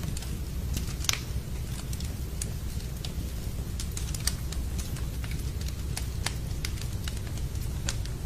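Wood fire crackling in a fireplace: scattered sharp pops and snaps, a few louder ones such as one about a second in, over a steady low rumble.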